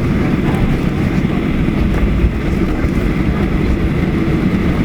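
Steady low rumble of an airliner cabin, the engine and airflow noise heard from a passenger seat.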